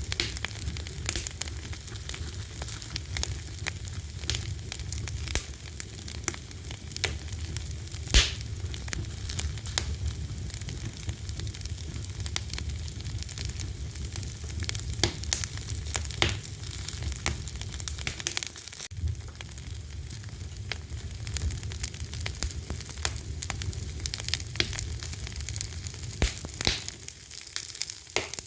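Fire crackling, with frequent sharp pops and snaps over a steady low rumble of flames; the loudest pop comes about eight seconds in.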